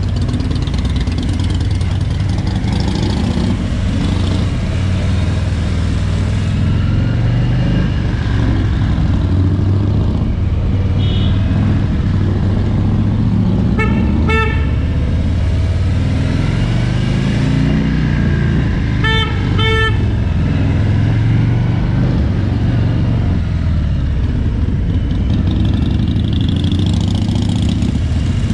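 Harley-Davidson Road King's Milwaukee-Eight 107 V-twin (1745 cc) running under way in slow traffic, its pitch rising as it picks up speed around the middle. Short horn toots come twice, a couple about halfway through and a few more some five seconds later.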